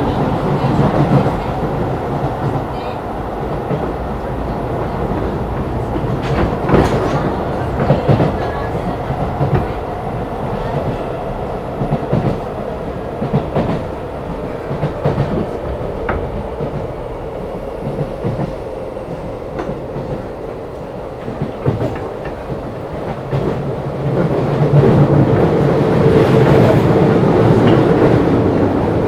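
Keisei 3500 series electric train heard from inside a motor car while running: a steady rolling rumble with wheels clacking over rail joints. About 24 seconds in, the running noise gets louder and a steady hum comes in.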